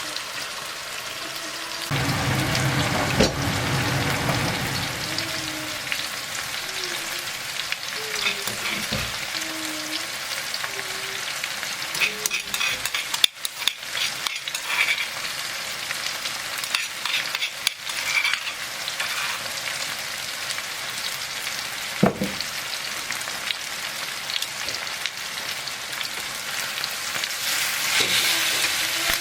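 Food frying in hot oil in a pan, a steady sizzle that grows louder about two seconds in, with occasional clicks of a utensil against the pan.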